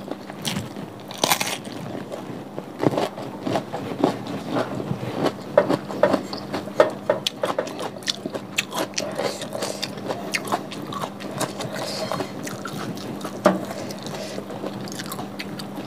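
Close-miked eating: a person chewing and crunching raw cucumber and fried cassava rice, many small crisp crunches and mouth clicks on a clip-on microphone. A faint steady hum runs underneath.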